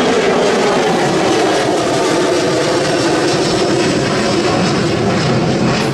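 Aircraft engines running loud and steady close by, their tone sinking slightly over the seconds.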